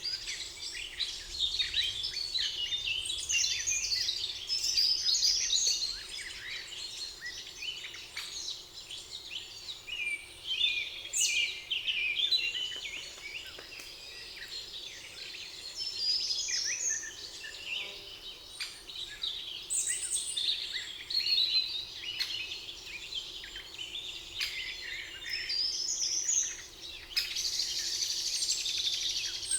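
Many songbirds singing at once in a spring forest, overlapping chirps and trills with no pause.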